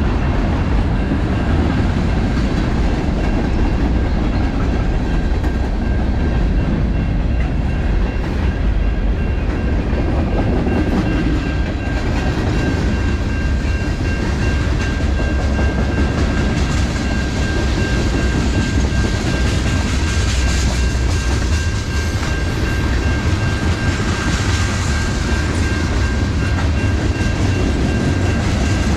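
A train rolling past on the track, its wheels clicking over the rail joints over a steady, continuous rumble, with a faint steady high whine running through.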